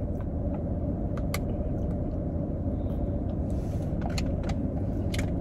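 Car engine idling, heard from inside the cabin as a steady low rumble, with a few faint clicks over it.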